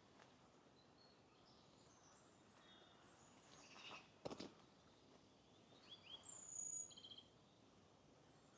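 Faint songbird calls: scattered short chirps and whistles, with a clear whistle falling in pitch and a quick trill about six to seven seconds in, over a faint steady hiss. A brief sharp click about four seconds in.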